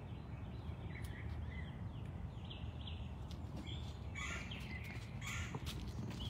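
Birds calling in the background, a handful of short calls spread through, over a steady low rumble.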